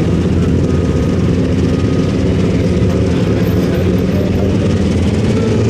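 Unlimited super stock pulling tractor's turbocharged diesel engine running loud and steady, its pitch holding level.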